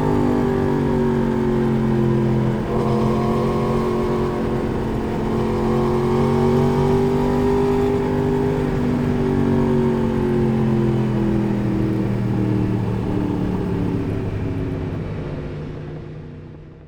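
Motorcycle engine running at moderate revs, its pitch drifting gently up and down, then fading out over the last few seconds.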